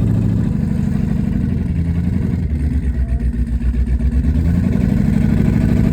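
Twin-turbo LS-swapped V8 running: the revs fall off to a low, pulsing, lumpy idle for a couple of seconds, then climb again near the end.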